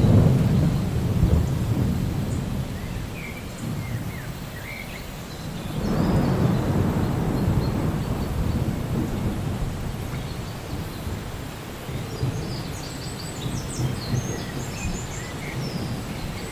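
Steady rain during a thunderstorm, with two low rolls of thunder: one right at the start and another about six seconds in, each swelling and fading slowly over several seconds.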